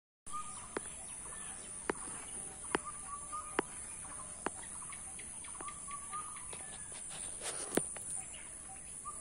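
Birds calling: a short warbling call repeated about every three seconds, with sharp ticks roughly once a second, over a steady high-pitched hiss.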